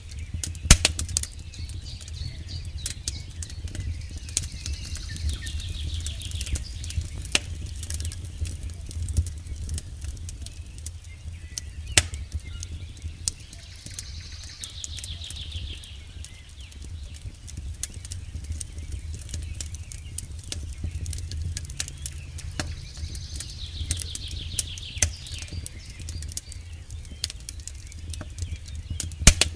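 Campfire crackling and popping over a steady low rumble, with sharp pops scattered throughout, the loudest just after the start, about twelve seconds in and near the end. A bird gives a falling trill three times, about nine seconds apart.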